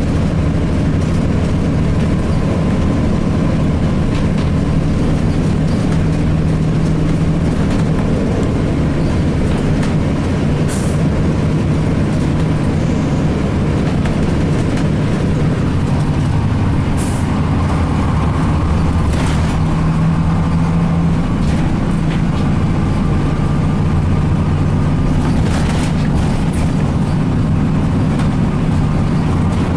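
Cummins ISC inline-six diesel engine of a 2002 Blue Bird CS transit bus running steadily, with a few short air-brake hisses.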